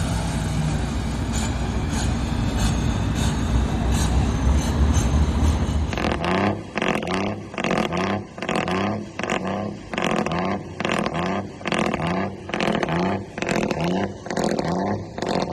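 Heavy truck engine running loud and steady, then from about six seconds in pulsing in even surges, about three every two seconds, each one rising briefly in pitch.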